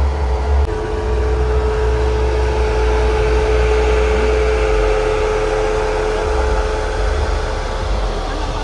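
A car engine running steadily at idle, a low rumble with a steady hum over it.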